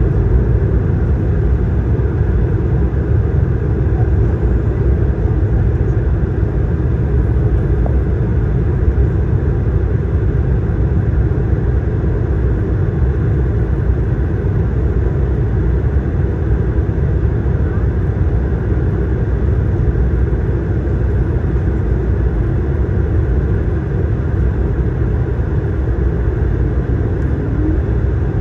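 Steady, even low rumble of cabin noise inside an Airbus A220-300 airliner, its engines and the airflow past the fuselage running without change.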